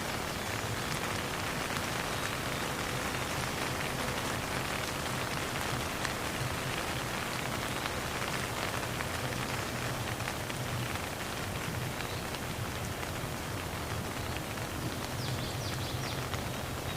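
Steady rain falling, many separate drops ticking on a surface, with no thunder.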